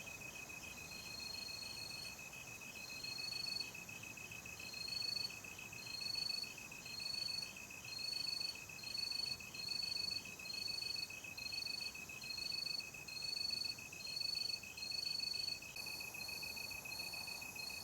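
Night insect chorus: a steady, fast-pulsing cricket trill, joined about a second in by a higher, slightly rising chirp that repeats about once a second and is the loudest part.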